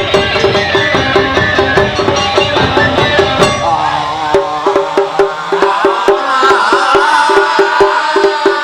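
Live Japanese festival band music: drums and a fast, even wooden clacking beat under melodic lines. About three and a half seconds in, the heavy drums drop out, leaving the clacking beat and the melody.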